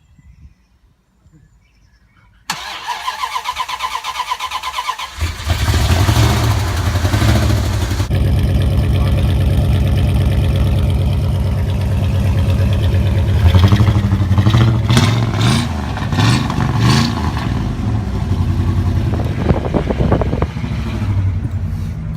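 1999 Dodge Ram 1500's 5.9-litre Magnum V8 cranking on the starter for about two and a half seconds, then catching and running loud, with a few rises and falls in engine speed later on. It is a start-up after the truck has stood for half a year.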